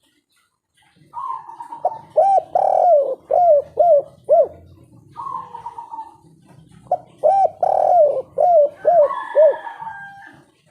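Spotted dove ('kuk 3' type) cooing: two song phrases about a second apart, each opening with a drawn-out note and running on into a quick series of short coos.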